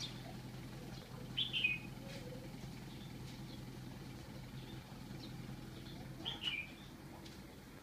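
A bird calls twice, two short high chirps that fall in pitch, about five seconds apart, over a steady low hum.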